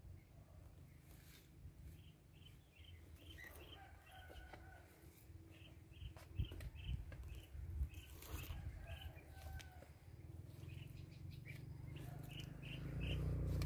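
A bird calling a short, high note over and over, about three times a second, over a low rumble, with a couple of sharp knocks partway through.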